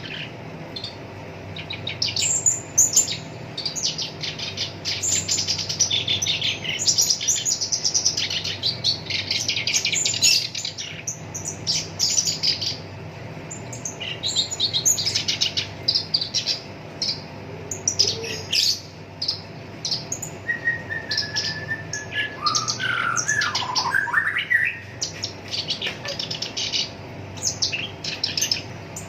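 Black-browed reed warbler singing a fast, harsh, chattering song in long rapid runs. About two-thirds of the way through it gives a few whistled notes that slide down in pitch. A faint steady hum lies underneath.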